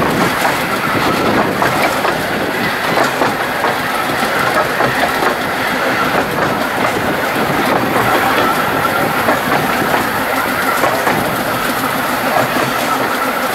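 Narrow-gauge train running along the track: a steady loud rumble and rattle of wheels on rails.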